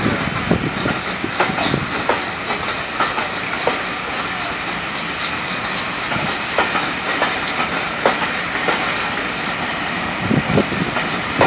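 Steam-hauled passenger train moving off through a station: a steady rumble with wheels clicking and knocking irregularly over the rail joints, the knocks bunching up near the end.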